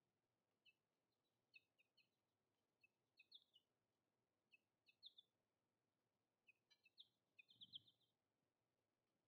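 Small birds chirping faintly: short high chips, some single and some in quick clusters of two or three. A soft low thud comes near the end.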